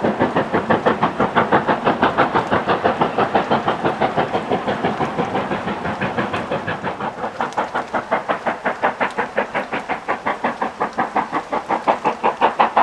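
Steam locomotive working hard, its exhaust beating sharply and evenly about five times a second. The beats fade a little in the middle, then grow louder near the end as the engine comes closer.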